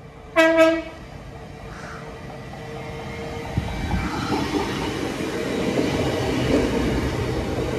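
Train horn giving two short toots on one note about half a second in. Then the rumble and wheel noise of an approaching train grow steadily louder.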